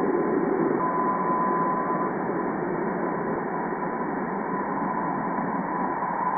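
NASA Juno spacecraft's plasma wave data from Jupiter's ionosphere, turned into sound by slowing it down 60 times: a steady rushing hiss with a faint steady tone through it.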